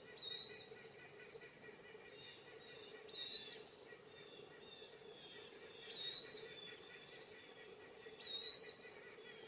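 Eastern wood-pewee giving four short, clear whistled calls, one every two to three seconds. Fainter repeated calls of other birds run underneath.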